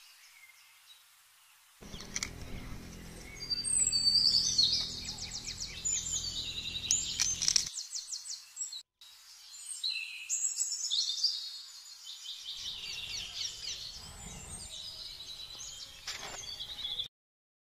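Several songbirds chirping and trilling in fast repeated notes, over a low outdoor rumble, with a brief dropout about halfway and a sudden stop just before the end.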